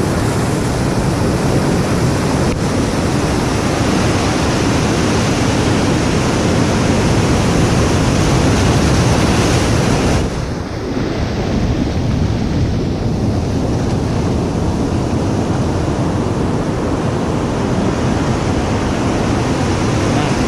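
Ocean surf crashing and washing in a continuous loud rush, with wind buffeting the microphone. There is a short lull about halfway through before the rush builds again.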